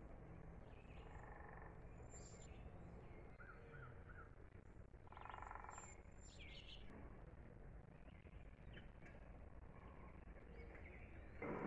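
Faint outdoor morning ambience with scattered bird chirps: a quick run of three chirps, then a longer, harsher call about five seconds in.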